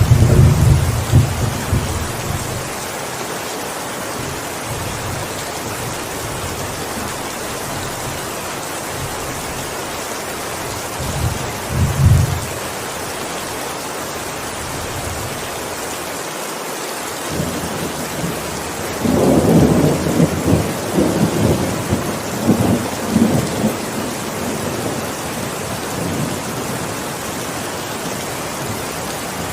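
Steady heavy rain with rolls of thunder. A low rumble dies away in the first couple of seconds and a short one comes about eleven seconds in. A longer, louder roll in several surges starts about nineteen seconds in and lasts around five seconds.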